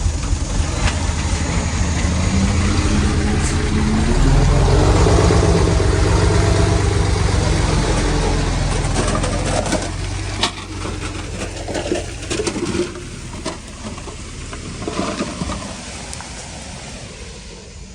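A heavy earthmoving machine's diesel engine working up close. It revs up in pitch a few seconds in and is loudest for several seconds, then falls away in the second half, leaving scattered knocks and clatter.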